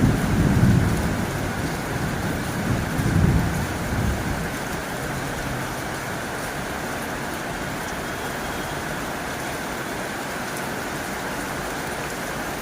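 Heavy rain on a tin roof, a steady dense hiss. A low rumble of thunder swells twice in the first four seconds, then fades out.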